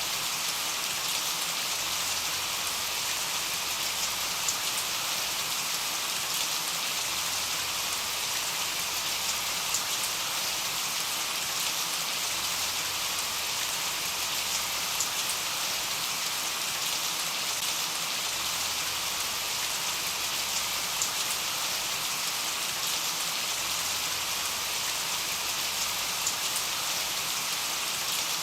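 Steady rain with scattered individual drop ticks.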